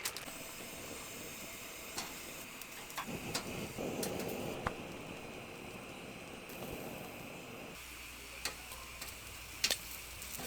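Chicken skewers sizzling as they grill: a steady hiss with scattered small ticks and clicks, louder for a stretch a few seconds in.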